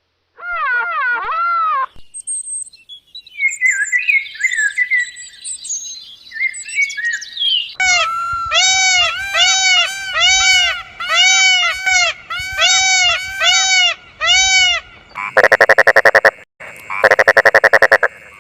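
A run of animal calls. Short chirps and gliding whistles come first, then about a dozen evenly repeated arching calls, then two loud, rapid, buzzing rattles near the end.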